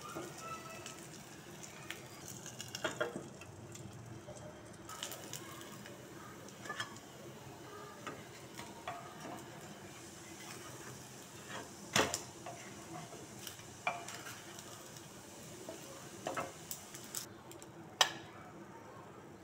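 Semolina-and-potato pancakes sizzling gently in oil in a frying pan, with a wooden spatula scraping and knocking against the pan now and then as they are turned and lifted. The sharpest knocks come about twelve and eighteen seconds in.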